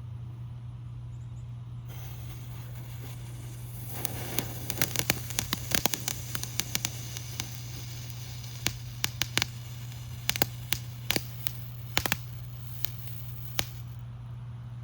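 Small ground fountain firework burning: a steady hiss starts about 2 s in, and about two seconds later a run of sharp crackling pops joins it. The pops thin out and stop near the end as the fountain burns out.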